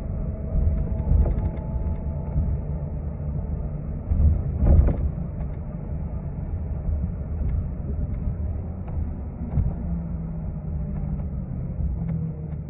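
City bus interior while riding: steady low engine and road rumble, with one loud jolt about five seconds in. Near the end a faint whine slowly falls in pitch.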